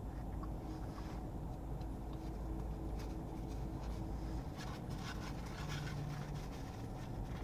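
A person chewing a mouthful of cheeseburger, with a paper napkin crinkling and rustling from about halfway through, over a low steady hum that fades midway.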